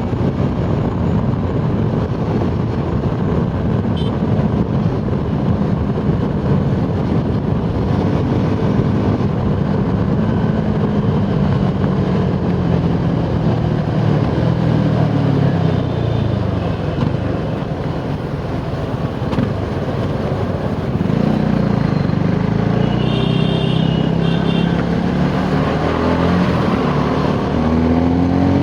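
Suzuki Gixxer SF 250's single-cylinder engine running hard at road speed under heavy wind rush. Its pitch falls away through the first half as the throttle eases, then rises again in the second half as it accelerates. A couple of short high tones come through briefly about two-thirds of the way in.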